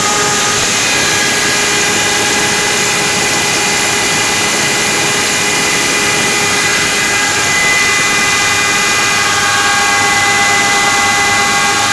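Sienko wood moulder running, its spinning cutterheads giving a loud steady rush with several high whining tones, as it machines wooden decking boards.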